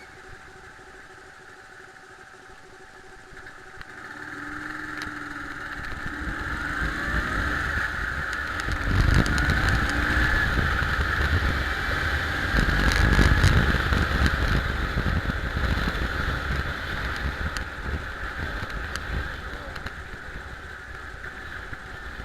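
Ural IMZ-8.103 motorcycle's 750 cc boxer-twin engine, growing louder from about four seconds in as it revs, with the pitch rising and falling. It is loudest about halfway through and eases off slightly near the end.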